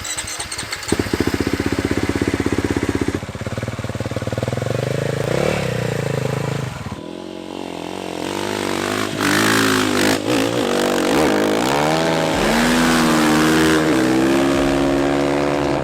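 Dirt bike engine of a ski-fitted water bike running, then revved up and down several times before holding a higher steady note near the end.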